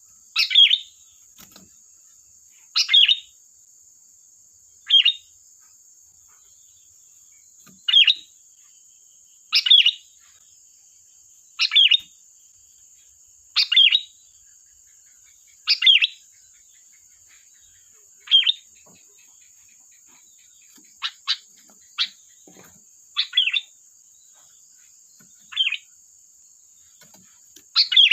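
Sooty-headed bulbul (kutilang) giving short, loud chirping calls, one about every two seconds, with a quicker run of sharp notes about two-thirds of the way through.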